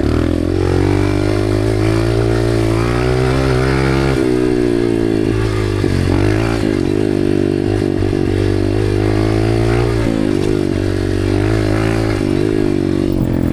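Dirt bike engine revving up and down over and over as the throttle is worked on and off, with a drop in revs about four seconds in and again about ten seconds in.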